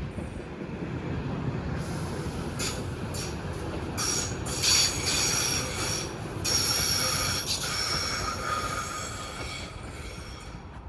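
Rail vehicle passing with its wheels squealing: several high-pitched tones over a low running rumble, strongest in the middle and easing off near the end.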